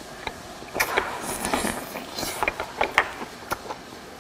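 Close-up eating sounds of a person chewing hot boiled chicken thigh meat: a string of wet mouth clicks and smacks, with a few short hissing breaths of air through the mouth.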